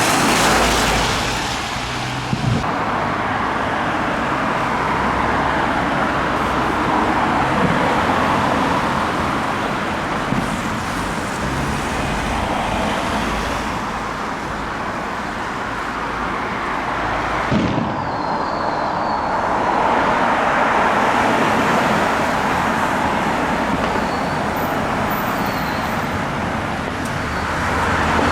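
Road traffic: cars driving past, a steady rush of engine and tyre noise that swells and fades several times as vehicles pass.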